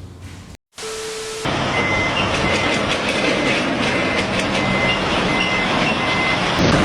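A loud, steady vehicle rumble with short high squealing tones that come and go. It follows a brief steady tone right after a cut about half a second in.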